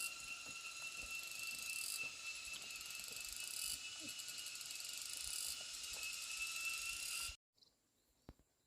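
Insects shrilling in a dense chorus, a steady high buzz with a fast pulsing trill, which cuts off abruptly about seven seconds in. A few faint clicks follow.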